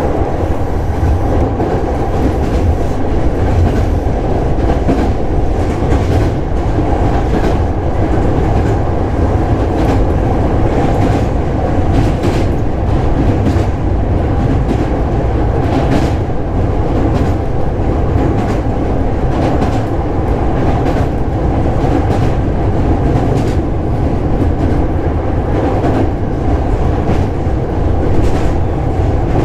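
Hankyu 7000 series electric train running at speed, heard from aboard: a steady rumble of wheels on rail, with short clicks as the wheels pass over rail joints.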